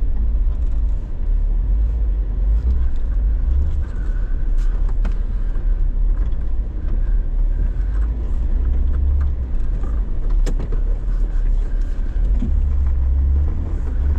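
Off-road recovery vehicle driving slowly along a snowy trail: a steady low engine and drivetrain rumble, with a few sharp knocks and clicks, the loudest about ten seconds in.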